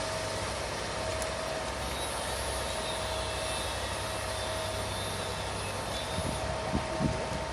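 Heavy railway track maintenance machine running steadily, its engine giving a low hum, with a whining tone that comes and goes. There are a couple of brief louder sounds near the end.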